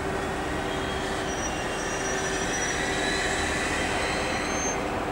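TGV high-speed trainset rolling slowly into the platform, a steady rumble with thin high squeals from its wheels and brakes coming and going as it slows.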